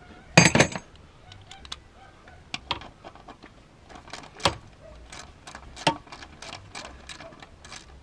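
Hand tools on metal under the hood: a loud metallic clatter about half a second in, then scattered light clicks, as a ratchet with a 10 mm socket works loose the screws holding the throttle body.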